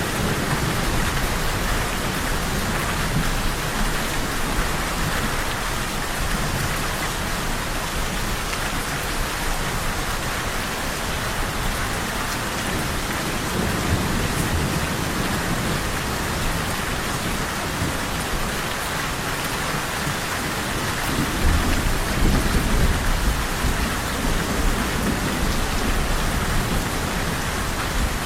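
Steady heavy rain falling in a dense hiss, with low thunder rumbling beneath it; the rumble swells louder about three quarters of the way through.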